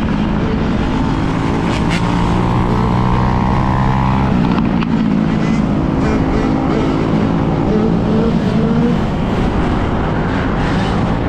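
Dirt bike engine running, its pitch rising and falling as the throttle changes, over rushing wind noise on the microphone.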